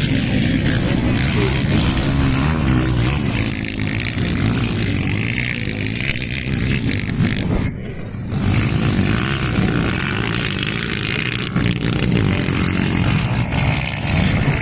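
Motocross motorcycles with Honda CG-based single-cylinder four-stroke engines racing, revving up and down, with a brief drop in level about eight seconds in.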